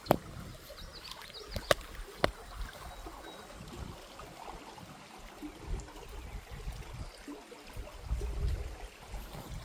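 Creek water running, a low steady wash, with a few sharp clicks near the start and a low rumble about eight seconds in.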